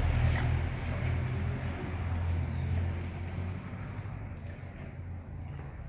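About five faint, short high chirps of small birds, spread out, over a low rumble that slowly fades.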